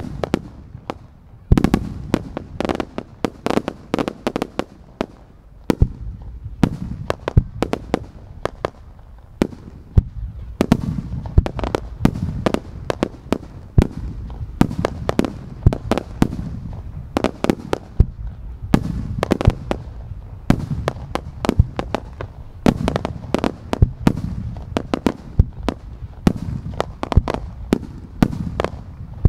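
Starmine barrage of aerial firework shells, launched in rapid succession and bursting overhead. Many sharp bangs a second overlap on a continuous low rumble, with a brief lull about a second in.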